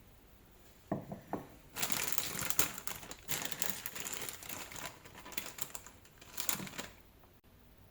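Plastic crinkling and rustling in irregular bursts for about five seconds, preceded by two light knocks, as a plastic bag or wrap is handled.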